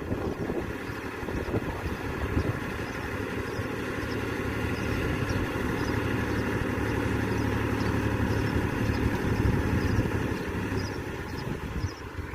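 Tractor engine running steadily, growing a little louder through the middle and easing off near the end.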